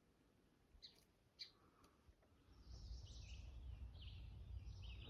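Near silence with faint bird chirps: two short high chirps about a second in, then more scattered chirping over a low rumble that comes in about two and a half seconds in.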